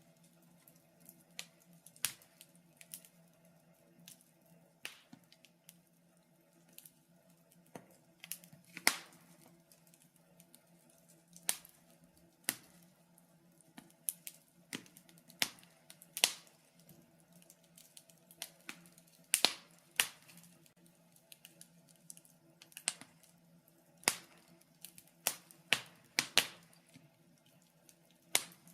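Wood fire crackling in a fireplace: irregular sharp snaps and pops, some loud and some faint, with short quiet gaps between them. A faint steady low hum runs underneath.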